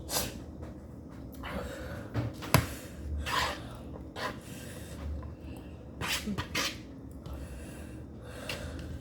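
Someone eating very spicy noodles, breathing hard and sniffing between mouthfuls, with a few sharp clicks. The loudest click comes about two and a half seconds in, and there are more near six and eight and a half seconds.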